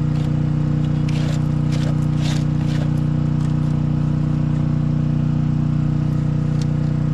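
Engine running steadily at an unchanging pitch, with a few short scrapes or knocks about one to three seconds in and one more near the end.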